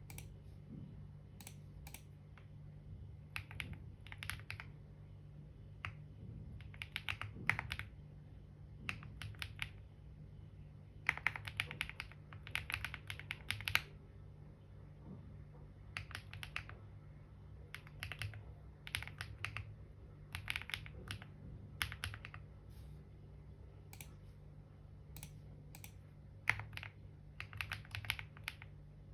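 Typing on a computer keyboard in bursts of rapid key clicks with short pauses between them, over a steady low hum.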